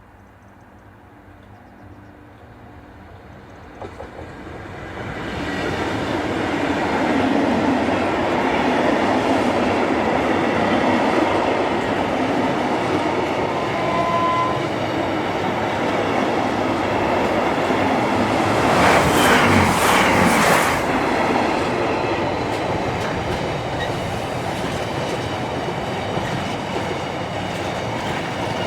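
Pair of Class 37 diesel locomotives approaching and passing on a test train: the English Electric V12 engines' drone builds from about four seconds in, with the clatter of wheels over the rail joints, loudest about two-thirds of the way through, then easing slightly as they run away.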